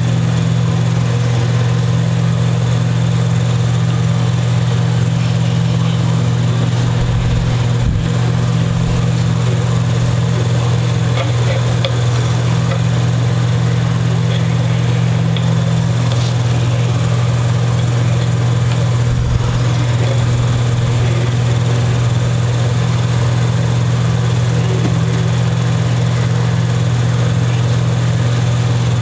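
A steady low electrical hum, with brief low thumps about eight and nineteen seconds in.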